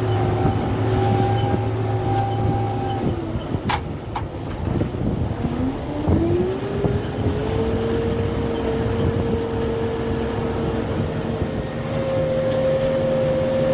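Kubota M6-141 tractor's diesel engine working, its speed dropping about three seconds in, then revving back up and holding a higher speed, stepping up again near the end. Two sharp cracks come just after the dip.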